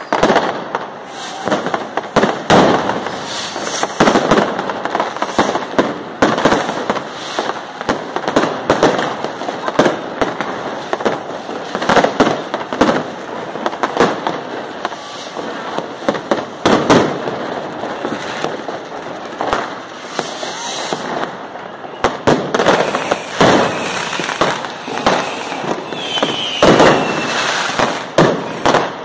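Many fireworks going off at once: a dense, irregular barrage of bangs, cracks and pops from rockets and firecrackers. Near the end a rocket's whistle falls in pitch.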